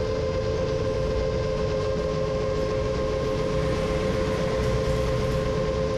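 Motors and propellers of a 7-inch FPV quadcopter running steadily in flight, a constant whine that holds its pitch.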